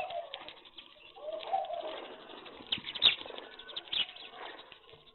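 Pigeons cooing, with low rounded coos near the start and about a second and a half in, among scattered short sharp clicks and chirps from the flock.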